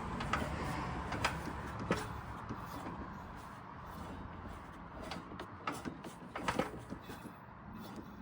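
A few light, scattered clicks and knocks from hands working on a lawn mower, with no engine running.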